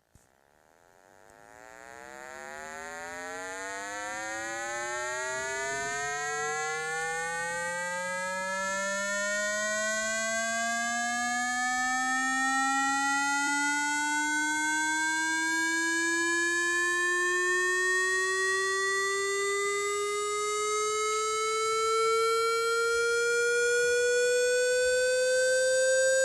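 Electronically generated buzzy tone sweeping slowly and steadily upward in pitch, played to vibrate water out of a phone speaker. It fades in from silence over the first few seconds and then keeps rising without a break.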